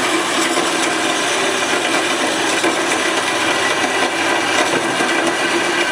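Roll In 8-inch vertical bandsaw running with its fine-tooth blade cutting steadily through a clamped workpiece, fed by gravity from its side weight. The motor and blade make a steady sawing noise with a constant hum underneath.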